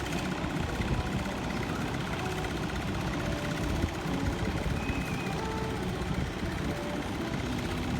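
Steady low engine rumble, with a few short faint tones above it.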